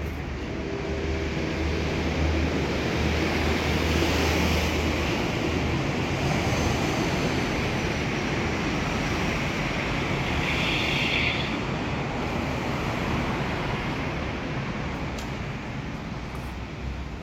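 Commuter train running on the rails: a steady rumble and rush that swells over the first few seconds and eases off near the end, with a brief high squeal about ten seconds in.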